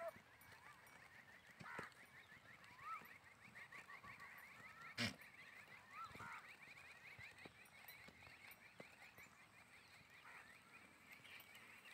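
Faint bird chirps and chatter: a fast run of short high chirps through the middle and again near the end, with a few single calls between, and one sharp click about five seconds in.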